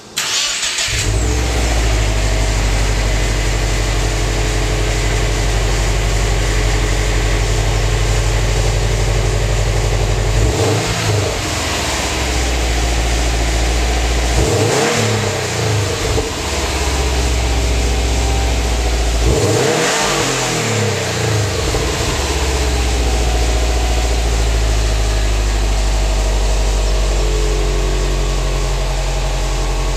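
2011 Subaru WRX's turbocharged 2.5-litre flat-four, on its stock exhaust, starting with a sudden flare, then idling steadily. It is blipped three times in the middle, each rev rising and falling back to idle.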